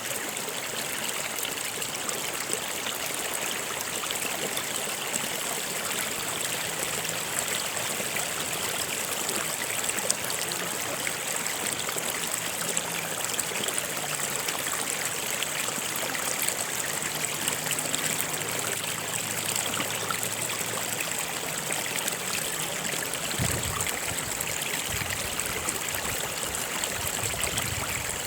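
Stream water flowing and trickling over rocks, a steady even rushing.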